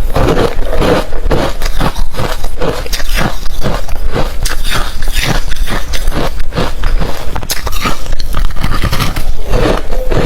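Close-miked crunching and chewing of hard refrozen crushed ice, a dense run of sharp cracks as the ice is bitten and ground between the teeth.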